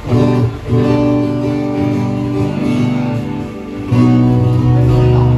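Guitar chords strummed and left to ring during a band's sound check. Three chords sound: one at the start, another under a second in, and a louder one about four seconds in.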